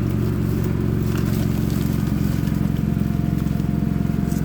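Generator engine running steadily: a constant low hum with a rapid, even pulse.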